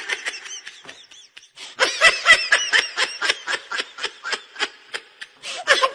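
A person laughing in a rapid string of short, high-pitched bursts, with a brief burst at the start and steady laughter from about two seconds in.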